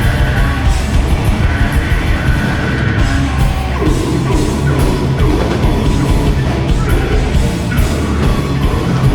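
Live grindcore band playing loud and fast, with distorted guitars, pounding drums and a screamed vocal.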